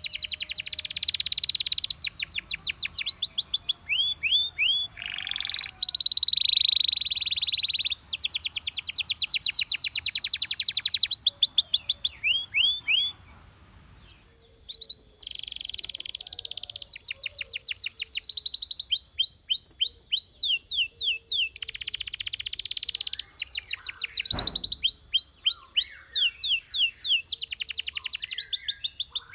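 Canary singing: phrases of fast trills alternating with runs of repeated rising notes, with a short break in the song about halfway through.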